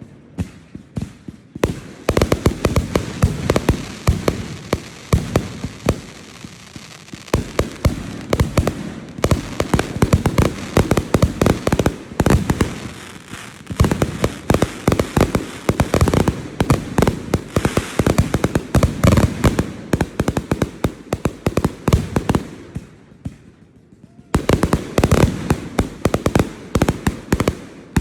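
Fireworks display: a dense, rapid barrage of booms and crackling bangs, easing briefly about 23 seconds in before another quick run of bangs.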